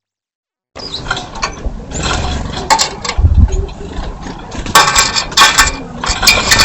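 Birds at a feeder: a run of clicks, clatters and scrabbling from pecking and perching on the feeder, with wing flutters and a few low thumps. It starts after a moment of dead silence.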